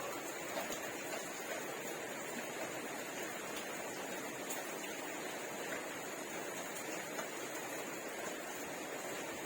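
Steady background hiss with a few faint, brief clicks.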